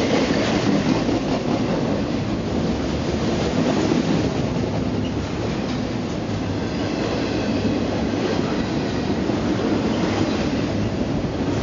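A double-stack container freight train rolls past at close range: a steady rumble of well cars and wheels on the rails. A faint high squeal comes in about halfway through.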